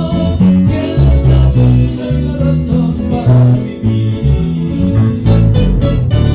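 Live guitar trio music in a Latin American style: plucked and strummed guitars over a steady walking bass line, playing a Christian worship song.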